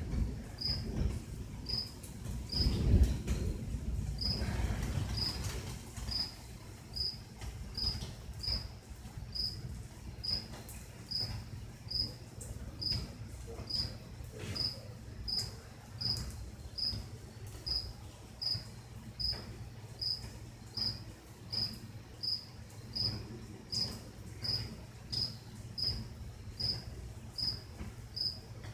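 A cricket chirping in an even, steady rhythm, about three chirps every two seconds. A low rumble swells and fades about three seconds in.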